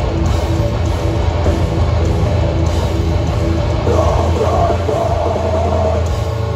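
Hardcore band playing live, loud and heavy: distorted guitars, bass and drums. A wavering higher note comes in over the top about four seconds in.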